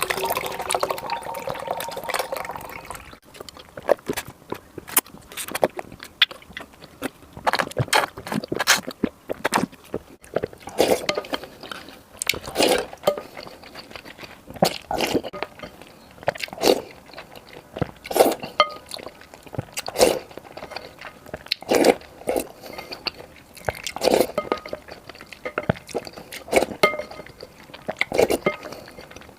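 Close-miked eating of purple rice porridge: wet spoonfuls, slurps and chewing, coming irregularly about once a second.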